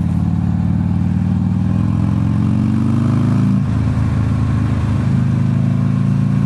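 Motorcycle engine pulling with its pitch rising for about three and a half seconds. The pitch then drops sharply at a gear change, and the engine runs on at a steady pitch.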